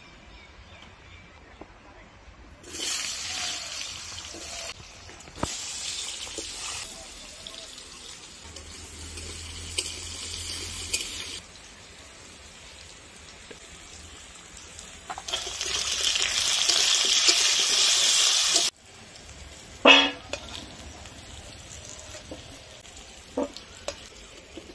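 Potato pieces sizzling as they fry in hot oil in a metal kadai, in several spells, the loudest two-thirds of the way through, which cuts off suddenly. Soon after, a single short metallic clank, and a few light clicks.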